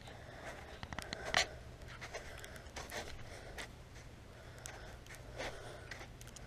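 Footsteps crunching on icy, snow-covered ground, an uneven series of short crunches with the loudest about a second and a half in.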